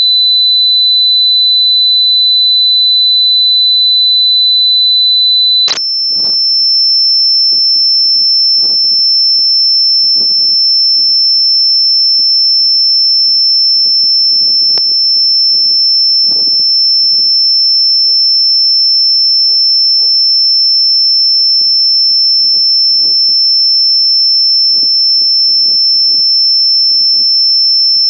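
A loud, steady, high electronic tone that jumps abruptly to a higher pitch about six seconds in and then holds, with faint gusty noise underneath.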